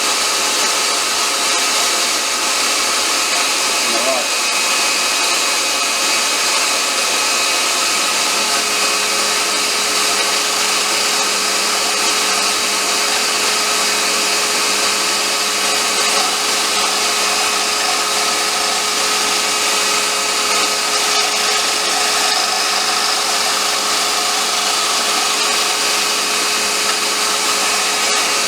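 Wood lathe running steadily while a turning tool cuts away material from a wooden popper lure blank mounted off-centre.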